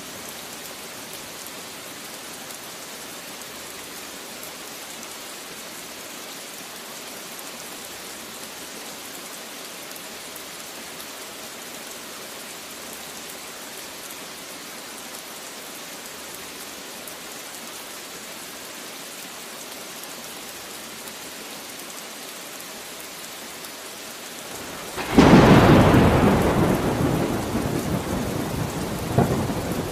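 Steady rain falling, then a sudden loud thunderclap about five seconds before the end that rolls on as a rumble, with a second smaller crack shortly after.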